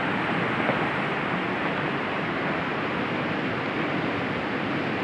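Steady rushing noise of wind and rain, with no distinct knocks or tones.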